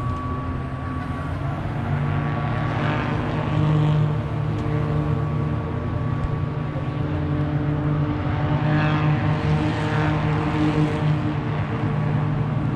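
Car engine running at steady revs, a continuous droning hum, with a few brief sweeps in pitch about three seconds in and again near nine seconds.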